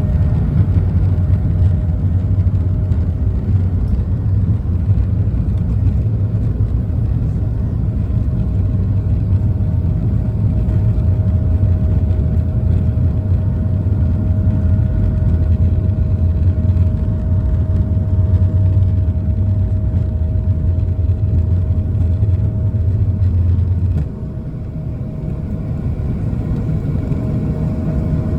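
Airbus A220-300's Pratt & Whitney PW1500G geared turbofans running at takeoff power, heard inside the cabin, with a steady engine tone over a heavy low rolling rumble. The rumble cuts off abruptly near the end and the sound gets quieter, as the wheels leave the runway at liftoff.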